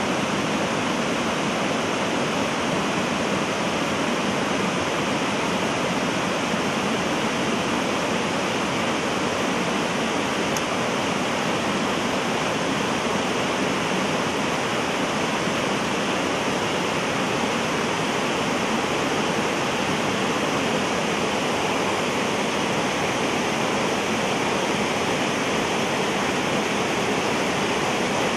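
Mountain waterfall pouring down a rock face and over a boulder cascade: a steady, even rushing of falling and splashing water.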